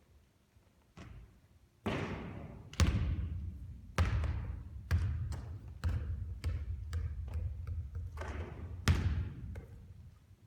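Basketballs bouncing on a hard court: a string of thuds about a second apart, each followed by an echo, with a run of smaller, quicker bounces in the middle.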